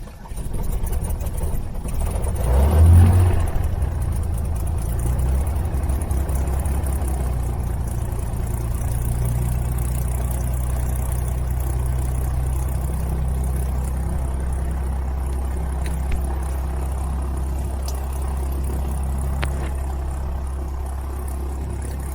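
Cessna 175C Skylark's piston engine starting. Uneven firing catches about two to three seconds in with a brief loud surge, then settles into a steady idle.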